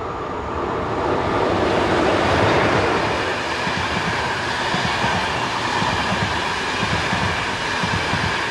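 Passenger train passing at speed, its wheels clattering rhythmically over the rail joints. It grows louder over the first couple of seconds as it nears.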